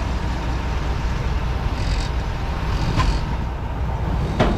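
A vehicle engine running steadily at low speed while the vehicle is driven forward. There are two short hisses partway through and a sharp knock near the end.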